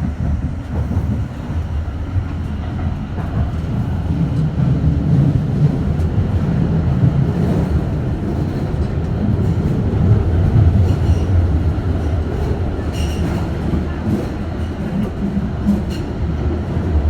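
Düwag M8C tram in motion: a steady low rumble of wheels and running gear on the rails, growing louder toward the middle, with a few sharp clicks near the end.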